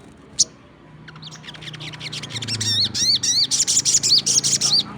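Sogon songbird singing: a fast run of repeated, arching high chirps that builds from about a second in, is loudest over the last two seconds, and stops abruptly. A single sharp click comes just before it.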